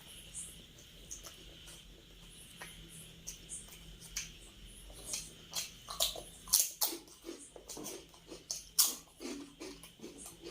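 Close-up eating sounds: a person chewing with wet mouth clicks and smacks, sparse at first, then louder and more frequent from about halfway through.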